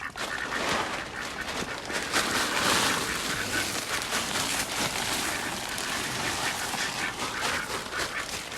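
A flock of domestic ducks quacking continuously, with many calls overlapping.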